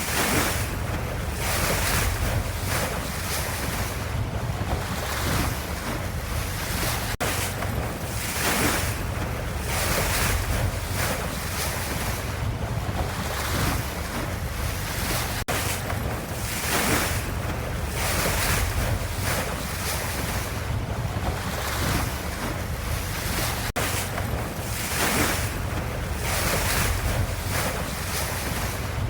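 Ocean waves washing in a steady surf noise that swells and eases every couple of seconds, with a faint click about every eight seconds.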